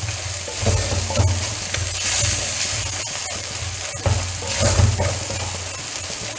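Chopped onions and tomatoes sizzling in coconut oil in a kadai while being stirred, the spoon scraping the pan about once a second. The onions and tomatoes are softening on the heat before the spice powders go in.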